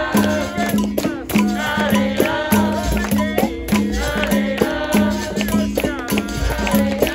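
Capoeira roda music played live: a berimbau sounds a low note repeated in a steady rhythm with the rattle of a shaker, under percussion strokes and voices singing.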